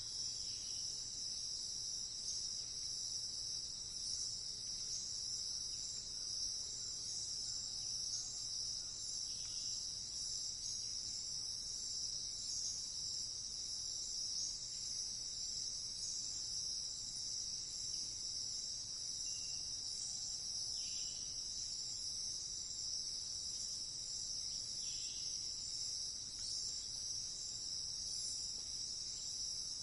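Steady chorus of crickets, a continuous high-pitched chirring, with a few faint short calls now and then.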